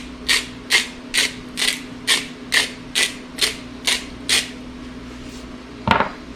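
Salt grinder being twisted over the pan, giving short rasping grinds about twice a second that stop about four and a half seconds in. A single sharp knock follows near the end.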